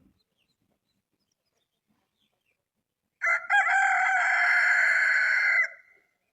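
A rooster crowing: one loud, long call of about two and a half seconds, starting about three seconds in.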